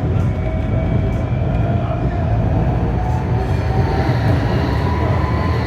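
Tram running along the line, heard from inside the car: a steady low rumble with a thin electric whine from the drive, a higher whine joining about halfway through.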